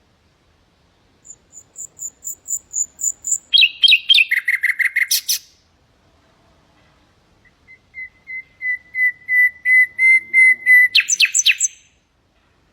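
Nightingale singing two phrases. The first is a run of high thin notes, then a fast trill and a burst of lower repeated notes. The second, after a short pause, is a long series of repeated whistled notes on one pitch that swell steadily louder and end in a quick flourish.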